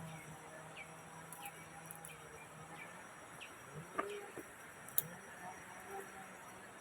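A bird calling in a forest: short, high, falling chirps repeated about twice a second, fading out after about three and a half seconds. A low steady hum stops about three seconds in, and two sharp clicks are heard about four and five seconds in.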